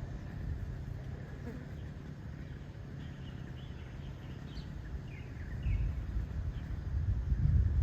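Steady low outdoor rumble, louder in the last two seconds, with a few faint short bird chirps in the middle.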